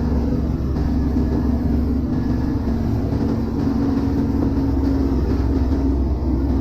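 Arvor 230 fishing boat's inboard diesel engine running steadily underway: a constant low drone with a held hum.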